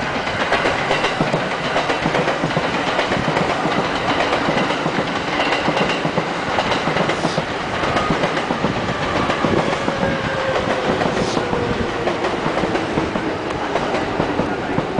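E231 series electric commuter train running past, its wheels clattering over the rail joints. In the second half a whine falls slowly in pitch, and there are two brief high squeaks about seven and eleven seconds in.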